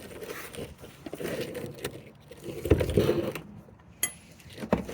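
Socket and ratchet clinking and knocking against a stuck oil filter housing as it is worked, in irregular metal clicks, with a sharp metallic clink near the end.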